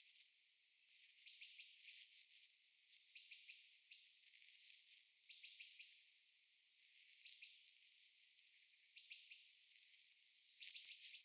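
Faint insect-like chirping: a steady high trill with clusters of quick pulses about every one and a half to two seconds.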